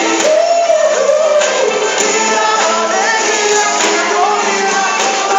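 Live gospel song: a band playing with a lead singer's voice, sustained sung notes gliding over the backing.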